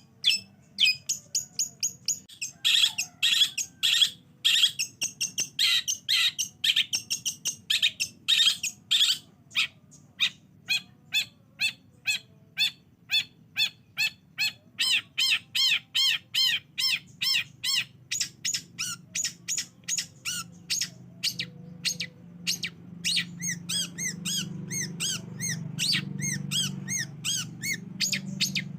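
Long-tailed shrike (cendet) song, as played back on a lure recording: long runs of sharp, rapidly repeated high chirps, about three to four a second, turning to arched whistled notes from about halfway. A faint low hum swells underneath near the end.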